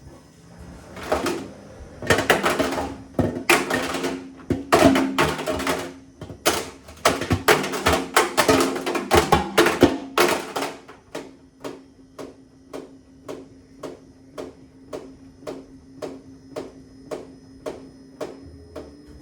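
A calculator clattering and banging inside the drum of an LG WM6700HBA front-load washing machine. The banging is dense and irregular at first, then from about halfway it settles into regular knocks about twice a second. Near the end the machine's motor hum rises in pitch.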